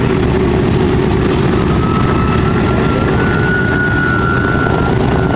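Boeing B-17's four Wright R-1820 Cyclone nine-cylinder radial engines running, a loud steady rumble with a thin high whine held through it.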